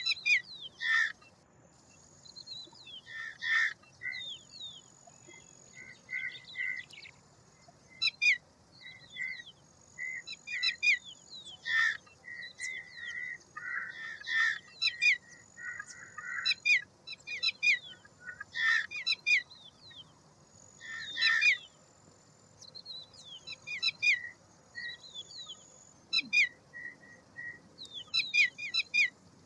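Birds chirping and whistling in repeated short clusters of high notes and quick falling sweeps, with a thin, high, steady tone that comes and goes above them.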